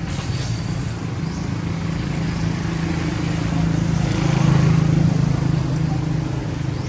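A motor vehicle's engine running steadily, growing louder about four seconds in, then easing off as it passes.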